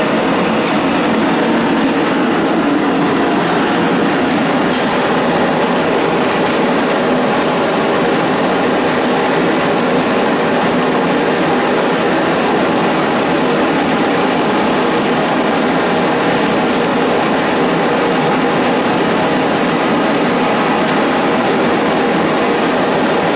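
Home-built propane forge burners, a pair of venturi burners fed through .023 MIG-tip jets, burning with a steady, loud rushing noise.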